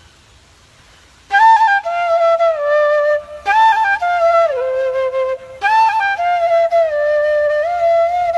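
A melody played on a bamboo flute, starting about a second in: three short phrases, each opening on a high note and stepping down to a lower held note, a try at the ice cream seller's call tune.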